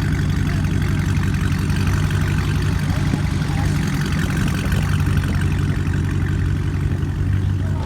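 Car engine idling nearby with a steady, low rumble.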